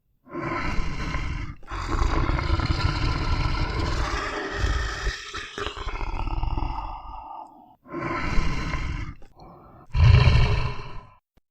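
Large animal roaring in a run of harsh calls: a short one, then one lasting about six seconds, then two shorter ones near the end.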